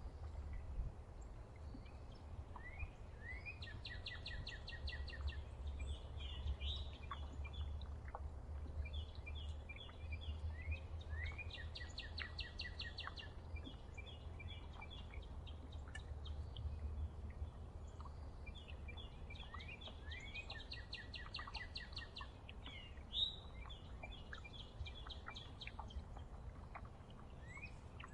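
A songbird singing the same complex phrase of rising notes and fast trills, repeated about every eight to ten seconds, over a steady low rumble.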